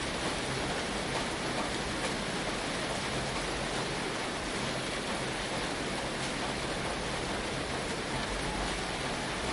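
Steady rain falling on a tin roof, an even hiss with no breaks or single loud events.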